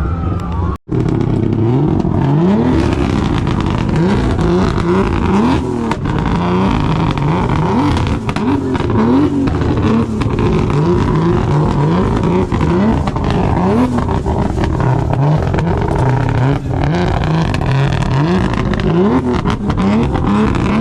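Several car engines revving over and over, each rev rising in pitch, with revs overlapping one another. There is a brief break just under a second in.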